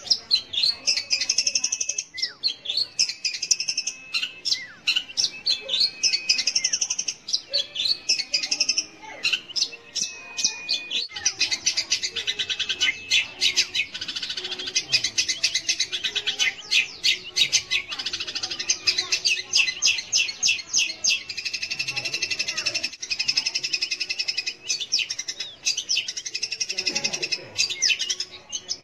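Long-tailed shrike (cendet) singing: fast runs of high, scratchy repeated notes. Varied short phrases come first, then a dense, rapid chatter from about eleven seconds in.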